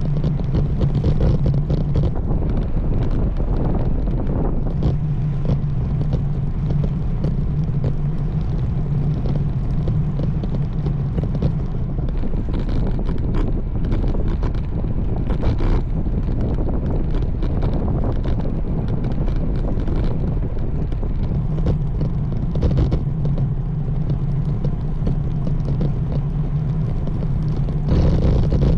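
Wind buffeting the microphone of a camera riding on a moving road bike, with a steady low rumble beneath it and frequent small crackles.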